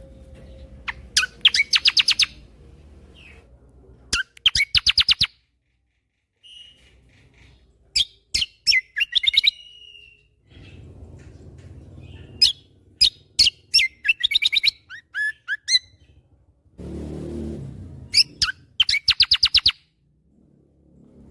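Kecial kombo (cucak kombo) singing: repeated bursts of rapid, sharp rattling notes, each burst lasting about a second, with short whistled and chirped notes between them. A short low rumbling noise breaks in about three-quarters of the way through.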